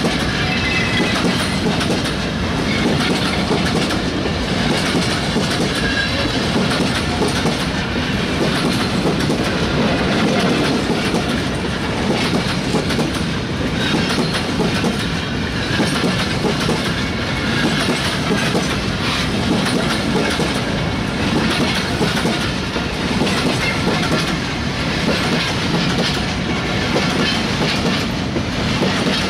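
Bogie oil tank wagons of a freight train rolling past at close range, steel wheels clattering on the rails, loud and steady.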